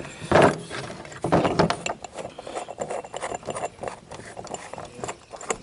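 Small-engine carburetor being handled and taken apart by hand: irregular light metal clicks, taps and clinks, with a couple of louder rustles near the start.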